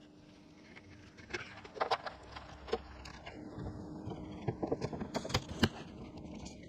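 Irregular clicks and knocks of hands working on car parts, coming more often in the second half, over a faint steady hum.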